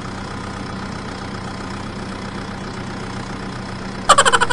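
Engine idling steadily with a low hum. About four seconds in, a loud, rapidly pulsing tone cuts in suddenly.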